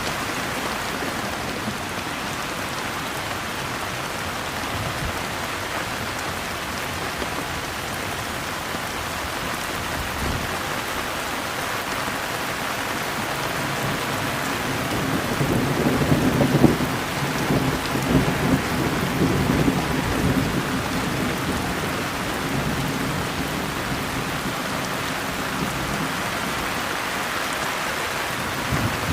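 Steady rain falling, with a low rumble of thunder swelling about halfway through and dying away some seconds later.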